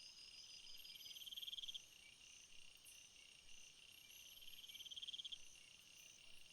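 Faint chorus of summer field insects chirping: several overlapping steady high trills, with one louder pulsing trill that swells and stops twice, once near the start and once past the middle.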